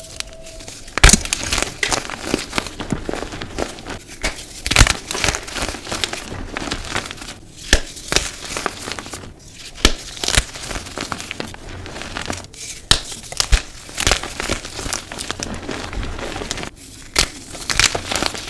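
Blocks of dyed gym chalk being crushed and crumbled, with a steady crunchy crackle broken by irregular sharp snaps as pieces break apart.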